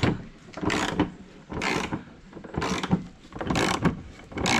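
Hand ratchet wrench ratcheting in repeated strokes, a short raspy clicking burst about once a second, as a bolt is worked loose.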